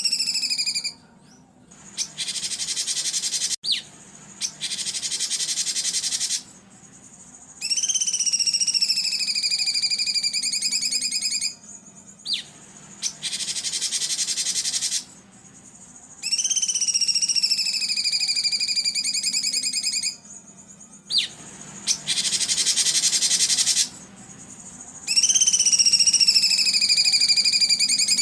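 Looped bird-song training recording: a long whistled call that drops in pitch and then holds, alternating with a rough, buzzy burst, the pair repeating about every eight and a half seconds.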